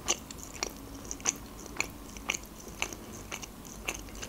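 Close-miked chewing with the mouth closed: short mouth clicks at an even pace, about two a second.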